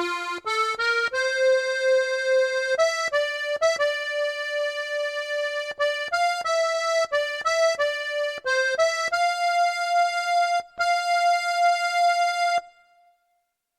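Accordion playing the closing phrase of a slow melody, ending on a long held note that cuts off about three-quarters of the way through, then silence.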